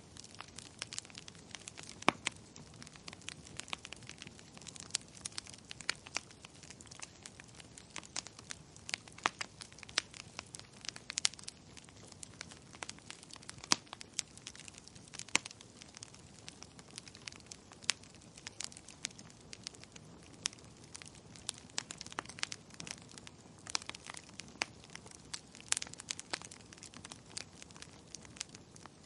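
Wood fire in a fireplace crackling, with frequent sharp, irregular pops and snaps over a faint, steady low rush.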